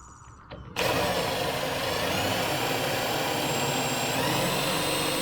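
Power drill running steadily, driving a self-tapping screw into the sheet-metal downspout; it starts suddenly about a second in with a steady whine.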